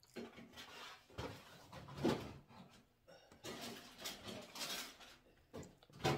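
A person chewing pizza, with irregular wet mouth sounds and the odd click, and a bite into the stuffed crust near the end.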